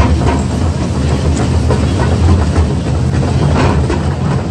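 Zoo train rolling along its track, heard from aboard: a steady low engine drone with the rattle and clicking of the cars on the rails.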